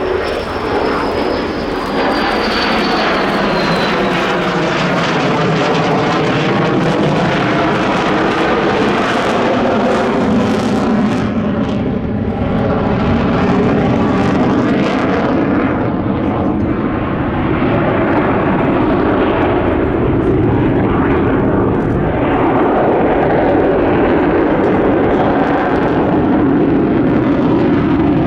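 Boeing F-15QA fighter jet's twin engines roaring loudly and continuously through its flying display. A whine falls in pitch over the first few seconds as the jet passes.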